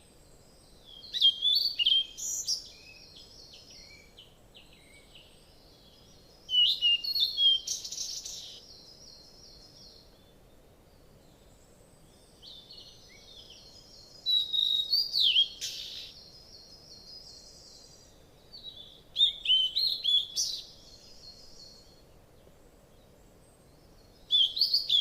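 A small songbird singing: five short phrases of rapid chirps and buzzy trills, each a second or two long, with pauses of several seconds between them.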